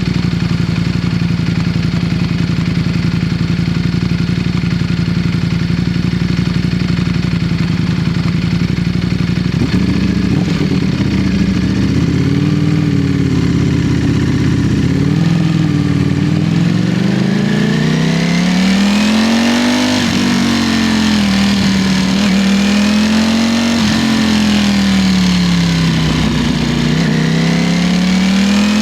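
Ducati Streetfighter V4 motorcycle engine running. It holds a steady pitch for the first ten seconds or so, then from about sixteen seconds in it revs up and down repeatedly as the bike accelerates and slows on the road.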